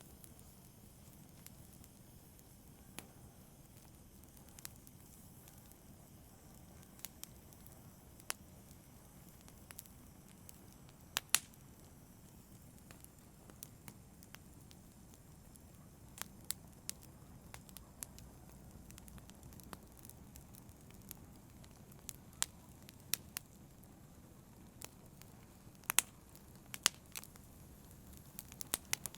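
Campfire burning with a low steady rumble, and wood crackling and popping at irregular moments, with a sharper double crack about eleven seconds in and a flurry of pops near the end.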